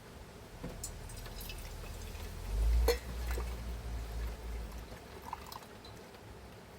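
Liquid being poured, with light clinks of glass and tableware and a low rumble that swells briefly a little before the middle.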